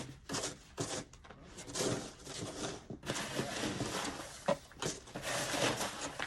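Snow being shovelled: irregular scraping and scooping strokes of a shovel through snow, busier in the second half.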